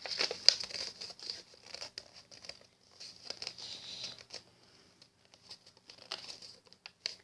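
A sheet of paper being handled, folded and creased by hand: short, irregular rustles and crinkles with small clicks, busiest in the first couple of seconds.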